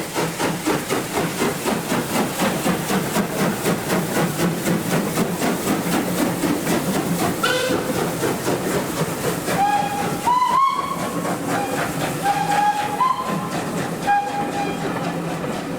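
Steam locomotive working with a steady rhythmic exhaust beat. Just past halfway comes a brief rising whistle, then several short steam whistle blasts at a few slightly different pitches.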